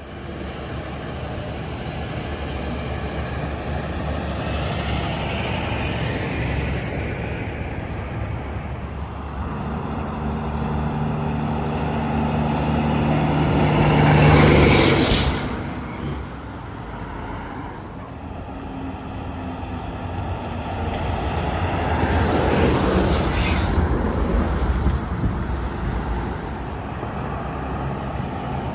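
Highway traffic going by, with a heavy truck's engine drone building and peaking as it passes close about halfway through. A second vehicle passes a few seconds later.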